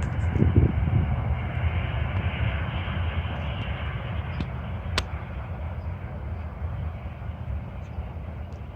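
Jet engines of a Boeing 737 running, a deep rumble under a broad roar that slowly fades. A single sharp click sounds about five seconds in.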